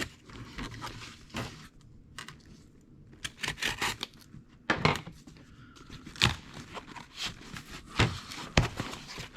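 A cardboard shipping box being opened by hand: packing tape tearing and cardboard and packing material rustling and crinkling in irregular bursts.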